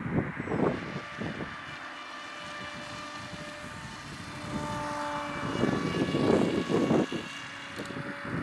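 Electric motor and propeller of a Dynam Hawk Sky RC plane running with a steady whine that shifts pitch now and then. Gusts of wind buffet the microphone about a second in and again from about five and a half seconds.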